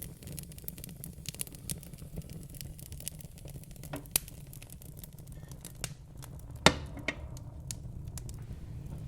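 Wood fire burning in a fireplace, crackling with irregular sharp pops over a low steady rumble; the loudest pop comes about two-thirds of the way through.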